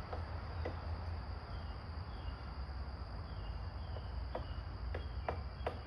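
Woodpecker pecking at a tree as it excavates a hole: single sharp taps at irregular spacing, a few coming closer together near the end. Under it run a steady high insect drone and a low rumble.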